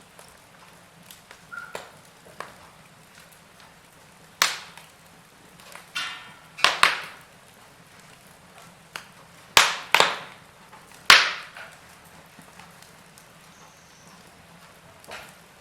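Wood fire in a fireplace crackling: irregular sharp snaps and pops over a faint steady hiss, with a handful of loud pops bunched in the middle.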